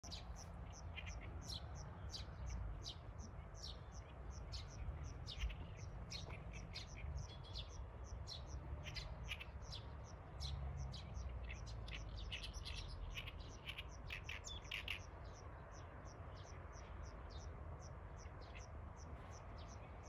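Bird chirping from tall grass: quick, short, high chirps, several a second, coming thickest around the middle and thinning out near the end, over a steady low rumble.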